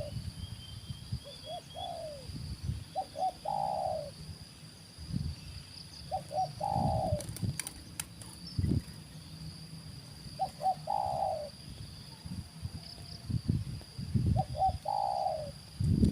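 Spotted dove (tekukur) cooing: a phrase of a couple of short notes and a longer falling coo, repeated about every four seconds. Low rustling and thumping underneath, with a steady high insect whine.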